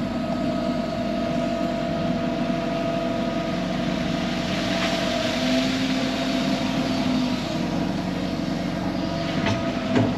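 Excavator engine running steadily under hydraulic load, with a steady whine whose pitch shifts briefly around the middle, and a couple of faint clicks near the end.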